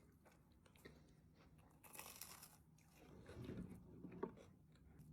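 Faint crunching and chewing of a bite of a crisp-crusted strawberry shortcake pie, with a short crackly crunch about two seconds in.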